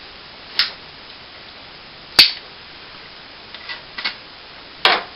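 Four sharp snaps and clicks from a spare quadcopter battery's packaging being opened by hand, the loudest about two seconds in.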